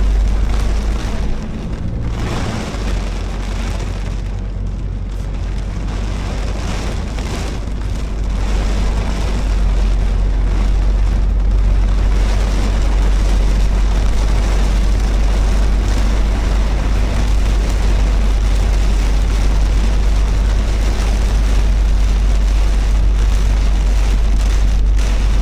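Car driving in the rain: a steady low rumble under an even hiss of rain and tyres on the wet road, a little quieter for the first several seconds.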